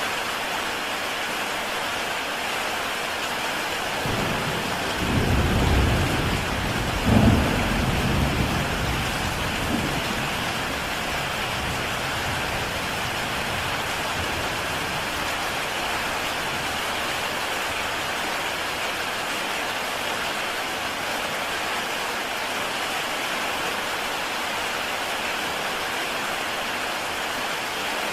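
Heavy rain falling steadily on a tile roof. A low roll of thunder builds about four seconds in, peaks with a sharper clap a few seconds later, and rumbles away over the next few seconds.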